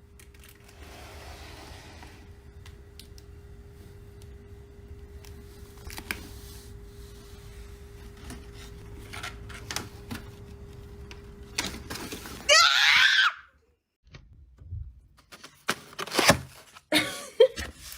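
A low steady hum with a faint steady tone and scattered clicks, broken about twelve and a half seconds in by a single loud cry under a second long that bends in pitch. Several sharp knocks follow near the end.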